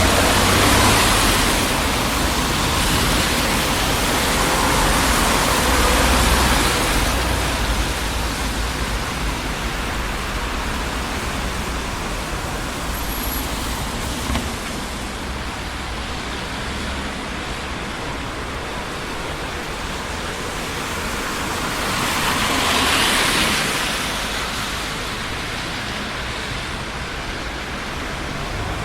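Traffic on a busy city street: a steady rush of tyres and engines, with vehicles swelling louder as they pass near the start, around six seconds in and again around twenty-three seconds in.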